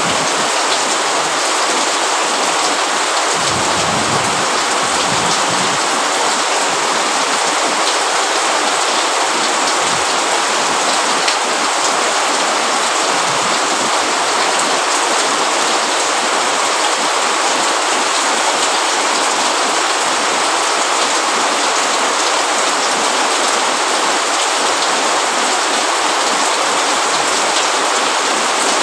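Steady rain falling, an even, unbroken hiss of drops, with a faint low rumble about four seconds in.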